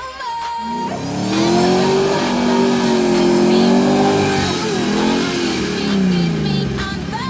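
Land Rover Discovery's engine revving hard under load as it drives through soft sand. The pitch climbs about a second in, wavers while held high, then falls away near the end.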